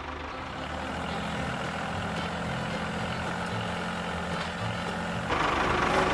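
Mini tractor engine running steadily, getting louder about five seconds in.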